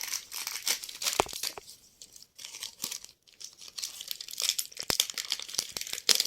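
Crinkly packet of powdered milk being handled and opened: irregular plastic rustling and tearing with small sharp clicks.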